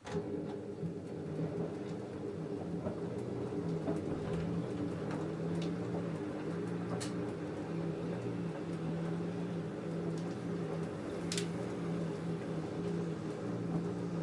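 LG F10A8HDS5 front-loading washing machine running a cotton wash: the drum motor starts abruptly and then hums steadily with a pulsing low tone. A few sharp clicks sound from the tumbling load.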